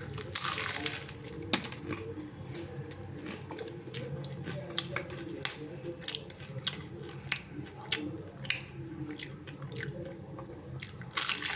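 A person chewing and biting a samosa, its crisp fried pastry crunching in small irregular clicks. Two louder short bursts of hissing noise come just after the start and again near the end.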